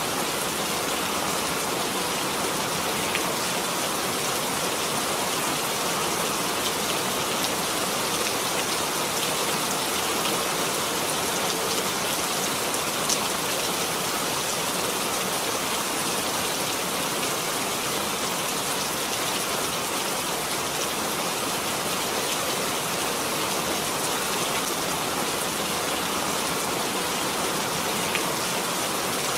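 Steady rain falling and pattering on surfaces, an even hiss with scattered drop ticks and one sharper tick about 13 seconds in.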